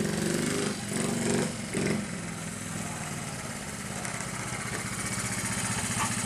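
1968 Honda Z50A K0 minibike's small single-cylinder four-stroke engine running while ridden. It surges with a few quick revs in the first two seconds, then settles to a steadier drone.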